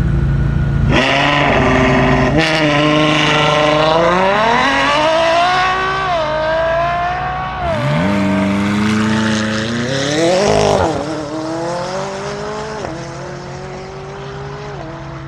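A high-performance car engine pulls away hard from a standstill, its pitch climbing and dropping back at each of several quick upshifts, then fading as the car draws away.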